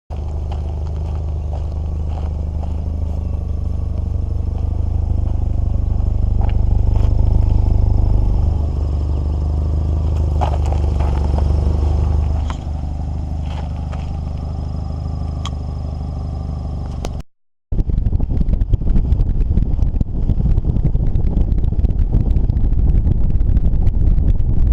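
Volvo 940's engine running with a steady low drone, swelling a little before dropping back about eight seconds in and again about twelve seconds in, with a few sharp clicks over it. After a cut about seventeen seconds in, a rough, fluctuating rumble with wind buffeting the microphone.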